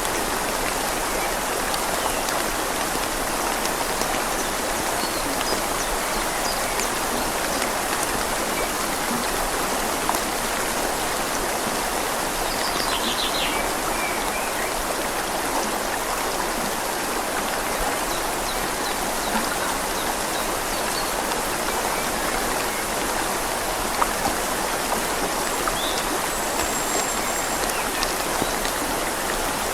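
Steady rain falling on leaves over a flowing river: a constant hiss of water, with single drops ticking now and then.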